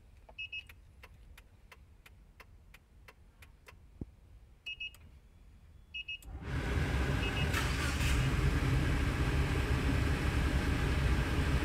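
Short double electronic beeps and a run of light ticking clicks, about three a second, as an Arduino RFID car-starter module is triggered by a swiped card; about six seconds in, the Suzuki Arena's engine starts and runs at a steady idle.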